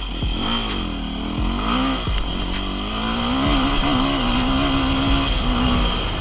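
Enduro dirt bike engine revving, its pitch rising and falling with the throttle, then held higher and fairly steady from about three seconds in.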